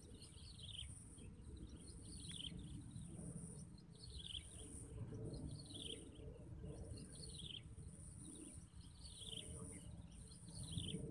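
Birds calling repeatedly, short falling calls every second or two, over a steady high insect buzz and a low rumbling noise.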